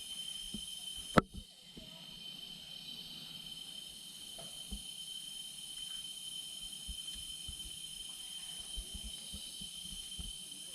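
Steady, high-pitched rainforest insect chorus of several continuous tones. A single sharp knock about a second in is the loudest sound, with light low bumps scattered through.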